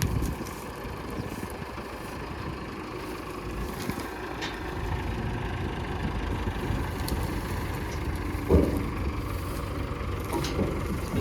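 A tractor's diesel engine running steadily at low revs, with a brief louder sound about eight and a half seconds in.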